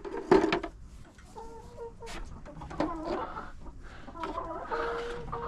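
Hens clucking and calling, several of the calls drawn out, with a sharp knock about a third of a second in.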